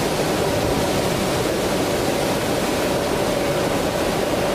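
A passing train, making a steady rolling noise with a faint steady tone in it.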